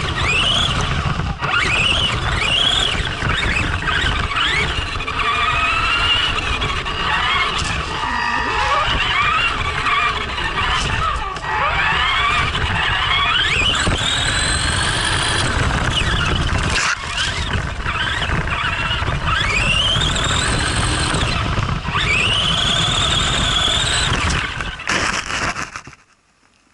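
Arrma Granite RC monster truck's electric motor whining, its pitch rising and falling again and again with the throttle as the wheels spin and drift on ice, over a steady low rumble. The sound cuts off suddenly near the end.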